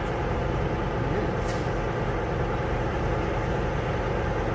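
Steady low rumble of an idling vehicle engine, with a faint short tick about one and a half seconds in.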